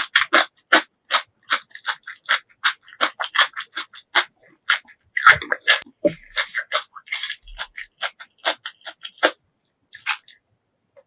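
Close-miked eating sounds: crisp, crunchy chewing at about two or three bites a second, with a denser, louder cluster about halfway through.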